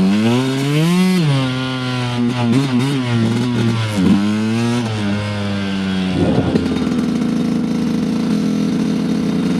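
Dirt bike engine under varying throttle on a trail: it revs up about a second in, drops, and rises and falls again unevenly until about five seconds in. It then settles to a steady low speed, near idle.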